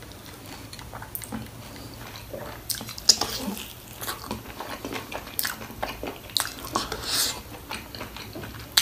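A person chewing and biting food, with irregular wet clicks and crackles that grow busier after the first couple of seconds.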